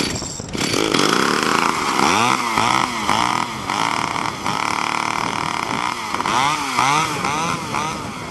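32cc Remington two-stroke chainsaw engine driving a motorized skateboard under way, its pitch rising and falling again and again with the throttle.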